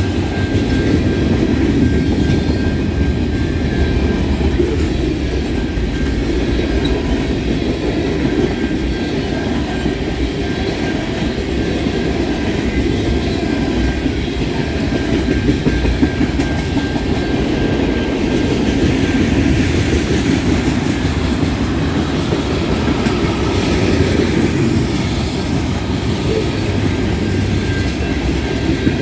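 Freight train cars of covered hoppers and tank cars rolling past steadily: a continuous rumble and clatter of steel wheels on the rails. A faint thin high tone comes and goes throughout.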